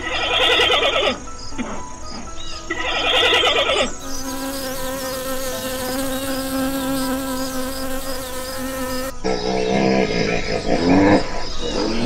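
Giant panda giving two short calls, then a bee buzzing steadily for about five seconds before cutting off suddenly, then a hippopotamus calling near the end. Soft background music with a light repeating tick runs underneath.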